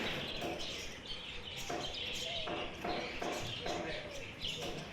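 Many caged lovebirds chirping and calling at once, a steady busy chatter of short high chirps.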